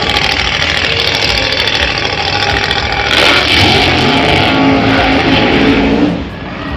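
Car engine running and revving, getting louder about three seconds in, then dropping away suddenly near the end.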